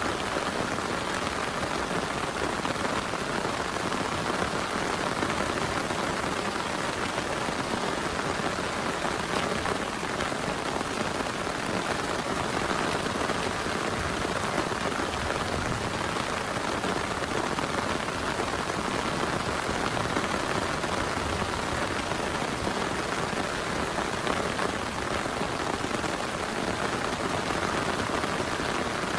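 Heavy rain falling steadily, a dense, even patter with no thunder.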